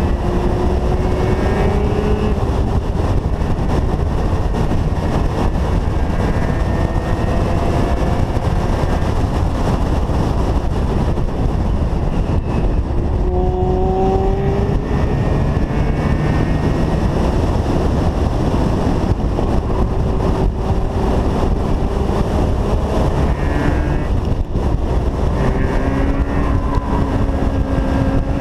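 Mazda RX-7 rotary engine pulling hard on track, its pitch climbing and then dropping back at gear changes several times. Heavy wind and road rush on the hood-mounted microphone runs under it.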